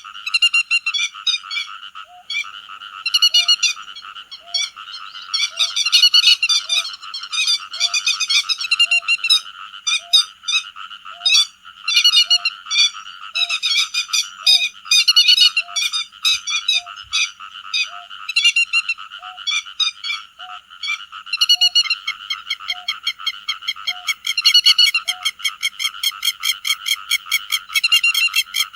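Te vàng birds calling in a dense, fast chorus of repeated calls that overlap one another, with a steady series of short lower notes about once a second through most of it. Near the end the calls settle into a fast, even pulsing. It is an edited lure recording of the flock calling.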